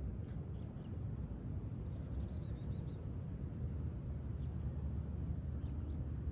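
Small birds chirping, with a quick trill of repeated notes about two seconds in, over a steady low background rumble.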